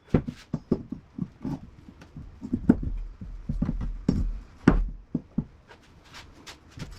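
A machete knocked repeatedly against scrap metal from an air conditioner to start a split: a dozen or so irregular sharp knocks, the loudest near the middle and about two-thirds of the way through.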